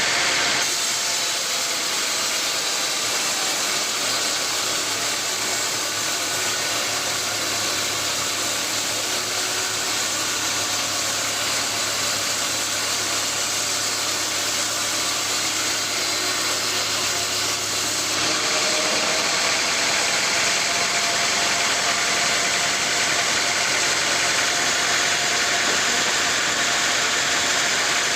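Sawmill machinery running, a loud, steady mechanical noise with a constant hum; its pitch changes about eighteen seconds in, as the low hum drops out and a higher steady tone comes in.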